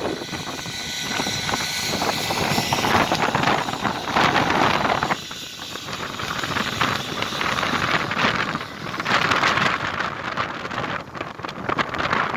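Sea waves washing against the shore, with wind buffeting the microphone. The noise swells and falls in surges a few seconds apart.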